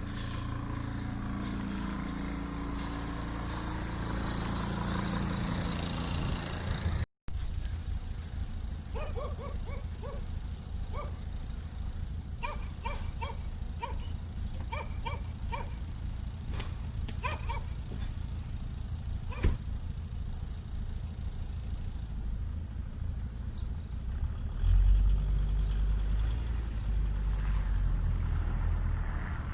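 Mercedes W210 E290's five-cylinder turbo diesel running steadily while still cold after a −17 °C start. Its low drone gets louder and deeper about 25 s in. In the middle, a run of short repeated barks, like a dog's, sits over it.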